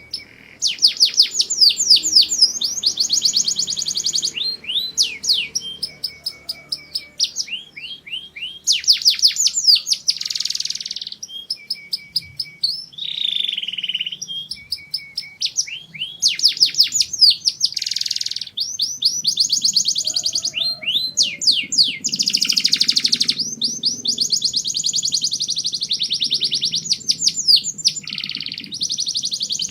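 Domestic canary singing a long, continuous song of rapid trills, fast runs of quick falling notes, broken by short held single notes and brief pauses.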